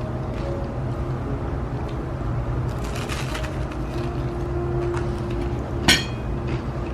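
Light clattering about three seconds in, then a single sharp, ringing clink of dishware near the end, over a steady low hum.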